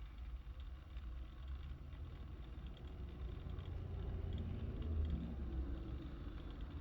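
Low, steady rumble inside a 2003 Infiniti G35's cabin, slightly louder about two-thirds of the way through.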